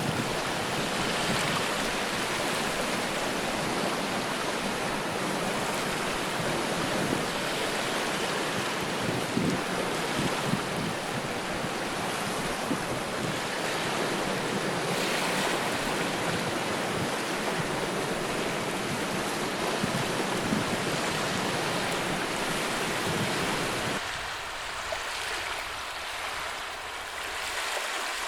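Sea waves breaking and washing on a shore: a steady surf noise. About 24 seconds in, the deep rumble drops away and the surf sounds thinner.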